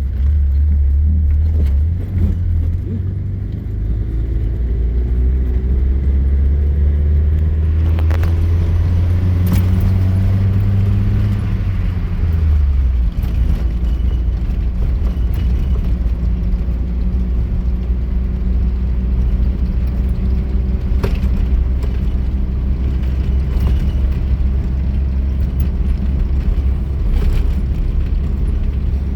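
Off-road vehicle driving, its engine droning low and steady. The engine note rises slowly, then drops about twelve seconds in. A few sharp knocks and rattles come over rough ground.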